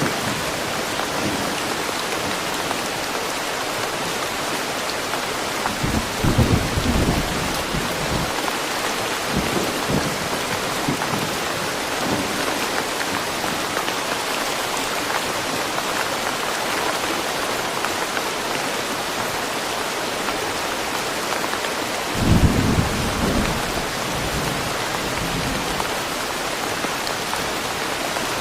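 Steady rain falling in woodland, with two short low rumbles of thunder, about six seconds in and again about twenty-two seconds in.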